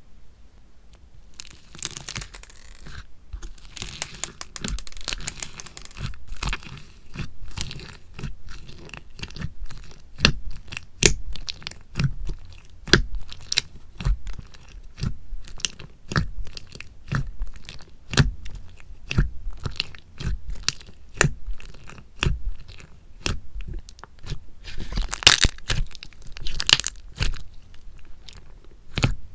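Slime being pressed, poked and stretched by hand: a dense run of sharp, irregular pops and clicks, with longer crackling stretches about two seconds in and near the end.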